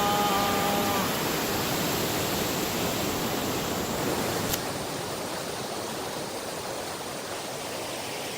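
River water rushing steadily, an even hiss of flowing water. About four and a half seconds in there is a single click, and the water is a little quieter after it.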